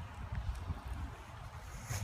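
Wind buffeting and handling rumble on a handheld phone microphone while riding a bicycle, an uneven low rumble with faint hiss above it.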